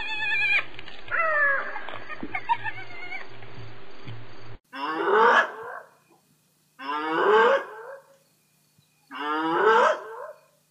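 Hyena calls: for the first few seconds, wavering calls over a steady hum, then three rising whooping calls, each about a second long and about two and a half seconds apart.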